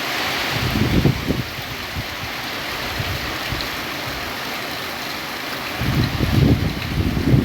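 Heavy rain in strong wind: a steady hiss of rain, with gusts buffeting the microphone in low rumbles about a second in and again near the end.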